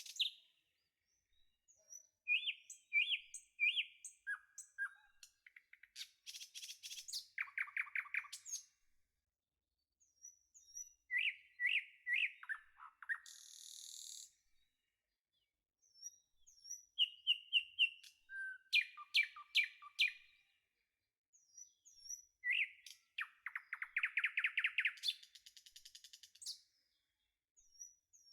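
Birds singing in short phrases of high chirps and rapid trills, with silent gaps of a second or two between phrases.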